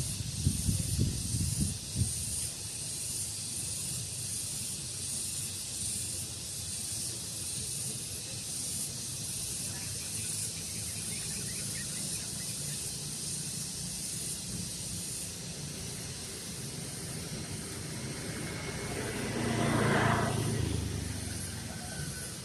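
Steady hiss of a daytime breeze outdoors, with low wind buffeting on the microphone in the first couple of seconds. A broader swell of noise rises and fades about twenty seconds in.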